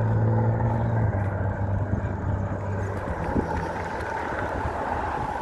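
Wind and road noise while riding an electric bike, with a steady low hum that is strong for about the first second and then fades.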